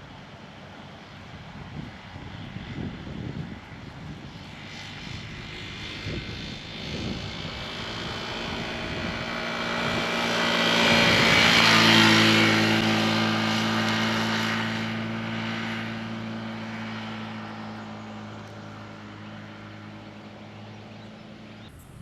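An engine passing by, swelling to a loud peak about halfway through and then slowly fading, with a steady low hum remaining after the peak.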